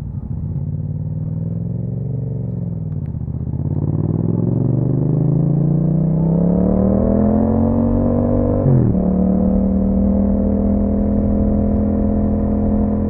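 A Yamaha MT-07's 689 cc parallel-twin engine through an Akrapovic exhaust accelerates. Its pitch climbs steadily for several seconds, drops sharply at an upshift about nine seconds in, and then holds steady as the bike cruises.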